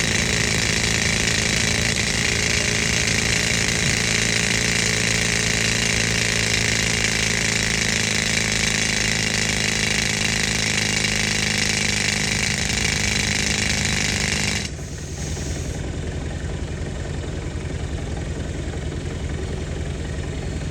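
Pneumatic rock drill running, driven by compressed air, over the steady running of the old air compressor's engine. About three quarters of the way through the drill cuts off suddenly, leaving the compressor engine running.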